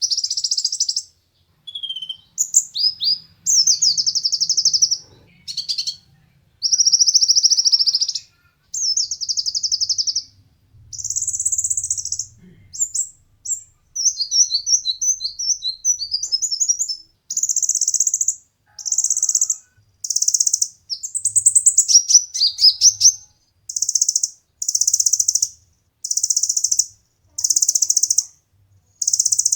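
A konin (kolibri ninja) sunbird singing competition-style song: a long string of high, rapid trilled phrases, each about a second long and separated by short pauses, with a few quicker twittering notes in between.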